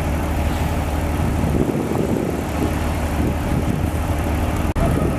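Diesel engine of heavy earth-moving machinery running steadily, with a very brief dropout near the end.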